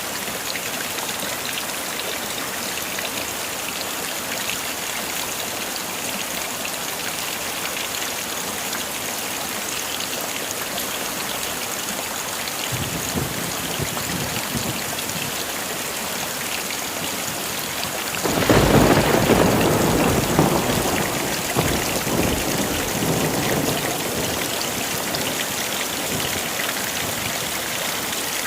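Heavy rain falling steadily. A faint low rumble of thunder starts about halfway through, then a loud thunderclap comes about two-thirds of the way in and rolls away over several seconds.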